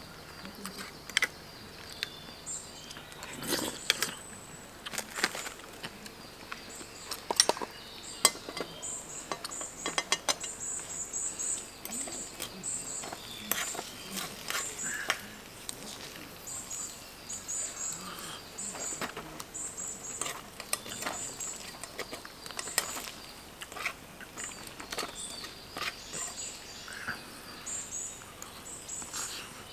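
Birdsong: high, quick chirps repeated in short clusters throughout, with scattered sharp clicks and crackles.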